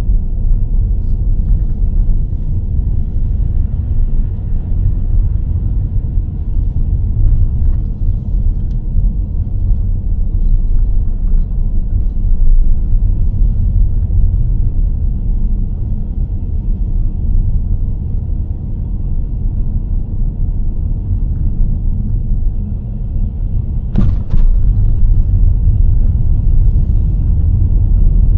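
Car being driven, a steady low rumble of tyres and running gear. A single sharp knock comes near the end.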